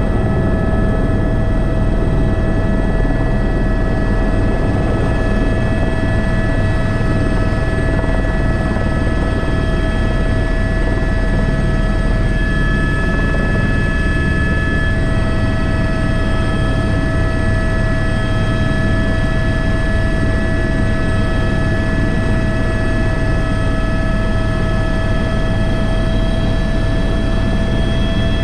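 Airbus H125 (AS350 B3) helicopter's turbine engine and rotors running steadily, heard from the cockpit. A constant whine of several fixed tones sits over a dense, low rotor rumble.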